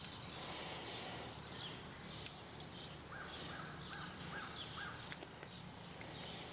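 Birds chirping faintly in the background, with a quick run of five short chirps about three seconds in, over a low steady hum. A couple of faint clicks.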